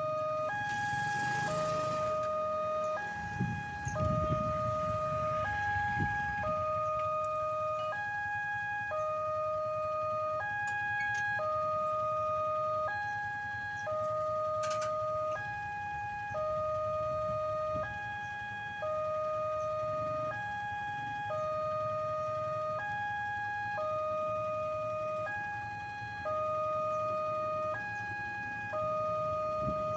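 Railway level crossing electronic warning alarm sounding, cycling through a regular repeating pattern of alternating tones, the signal that a train is approaching and the crossing is closing. Low rumbling of passing road traffic comes in about four to six seconds in.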